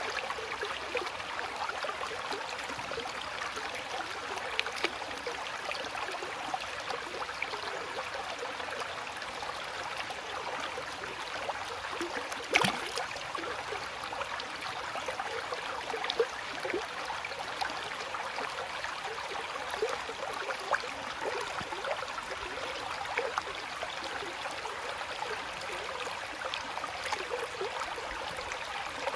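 Flowing water babbling steadily, with many small trickles and gurgles. A single brief, sharper splash or knock stands out about twelve seconds in.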